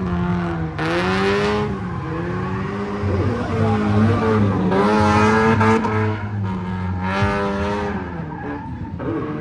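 Drift car engine revving up and down between shifts, with tyres squealing in three bursts as the car slides through the course.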